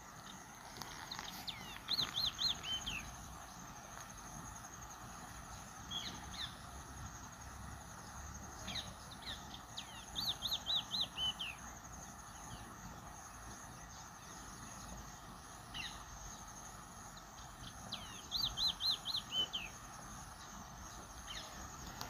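A bird singing a short phrase of four or five quick notes, repeated three times about eight seconds apart, with single chirps in between.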